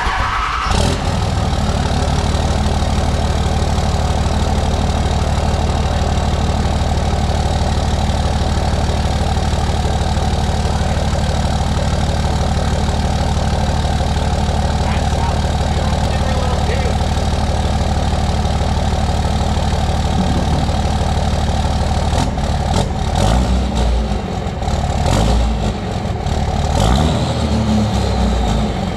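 Dodge Ram 2500's 5.9-litre Cummins inline-six turbodiesel starting up and settling into a loud, steady idle through its newly repaired exhaust. The engine note wavers unevenly in the last several seconds.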